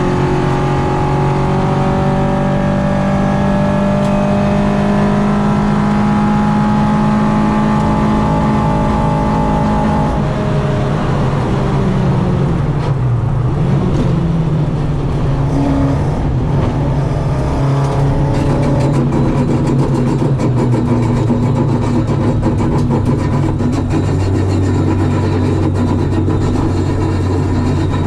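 Citroen AX 8-valve four-cylinder engine on twin Weber 40 carburettors, pulling hard at high revs with the pitch slowly climbing for about ten seconds. The revs then fall away over a couple of seconds as the throttle is lifted, and the engine runs on at lower, changing revs.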